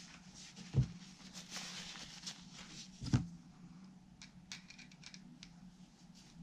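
Small handling noises of guitar assembly work: two dull knocks about two seconds apart, a brief rustle between them, then a few light clicks, over a faint steady hum.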